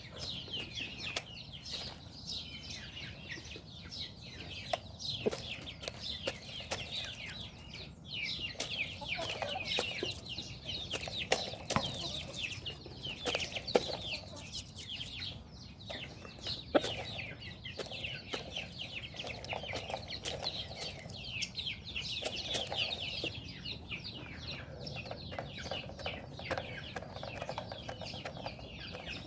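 Chickens clucking, over a constant dense chatter of short high-pitched chirps, with scattered sharp clicks.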